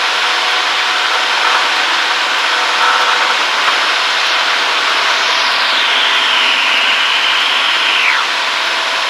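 Cessna 152's four-cylinder Lycoming engine running at full power on the takeoff roll, heard from inside the cockpit as a loud steady drone. About five seconds in, a high whistling tone falls in pitch, holds, and then drops away about eight seconds in.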